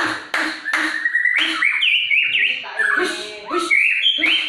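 White-rumped shama (murai batu) of the Lampung type singing: short harsh notes repeated about two to three times a second, then from about a second in a phrase of clear whistled notes gliding up and down.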